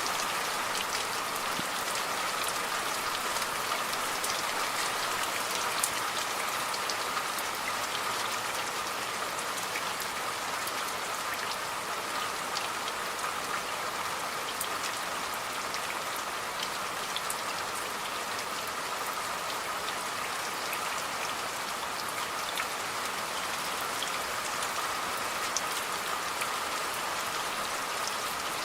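Steady rain falling on a surface: an even hiss with many scattered sharp drop ticks.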